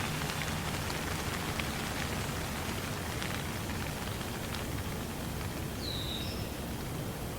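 Steady rain falling, an even hiss with scattered distinct drop ticks over the first few seconds. One short high chirp about six seconds in.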